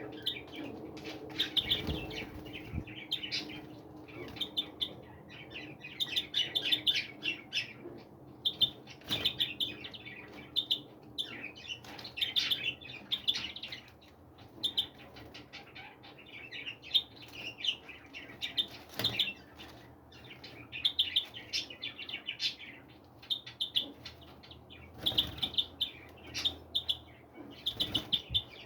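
Many small songbirds chirping, high quick chirps coming in dense clusters, with a few brief thumps among them.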